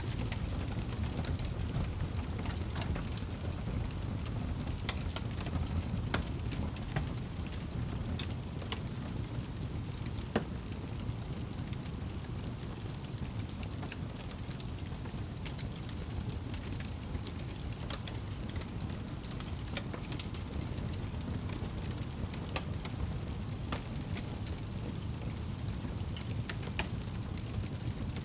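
Crackling fire with steady rain: a continuous low rumbling wash with scattered small pops and crackles, one sharper pop about ten seconds in.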